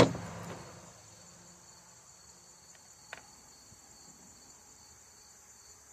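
A sharp knock at the start, dying away within a second, then crickets chirping steadily in the background, with one faint click about three seconds in.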